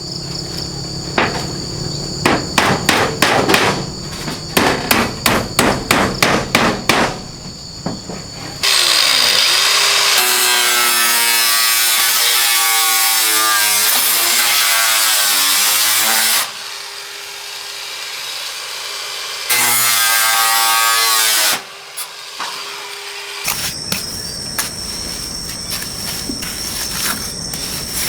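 A quick run of hammer blows, then a power saw cuts twice: a long cut and a short one, its whine dipping and rising under load. Crickets chirp steadily underneath.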